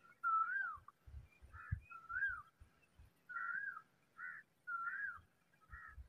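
A bird giving a regular series of short whistled calls, about one a second, each rising and then dropping in pitch. A few low thumps come in the first half.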